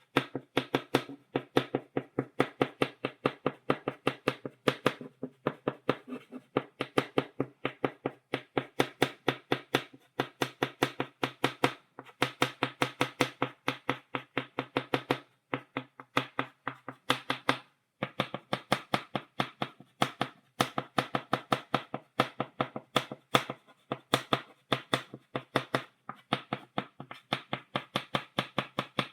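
Chalk tapping rapidly on a blackboard, stippling dots: a fast, uneven train of sharp taps, several a second, with a few short pauses.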